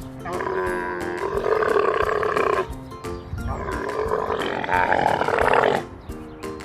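Camel calling: two long, drawn-out calls, each about two and a half seconds, over light background music.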